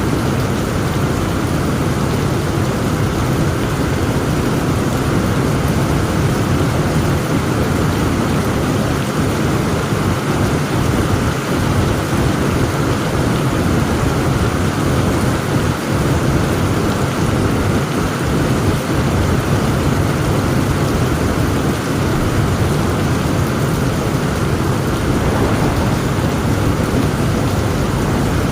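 Heavy rain falling steadily in a thunderstorm, with a constant low rumble under the hiss of the rain and no sharp thunderclap.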